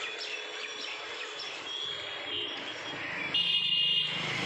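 Birds chirping over steady outdoor background noise, with a louder stretch of chirping about three and a half seconds in.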